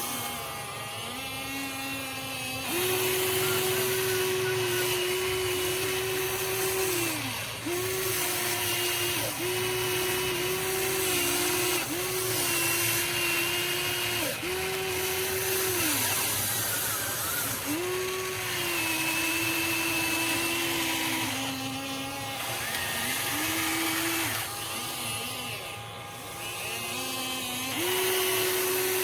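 Electric motors of a Huina 1593 RC excavator whining in short runs as its functions are worked. The tone keeps switching between a lower and a higher pitch, with brief dips as one movement stops and the next starts.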